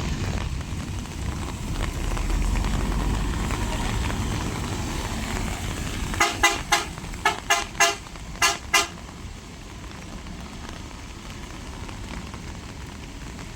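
Heavy earthmoving machinery rumbling in the rain. About six seconds in, a vehicle horn sounds eight short toots in three quick bursts.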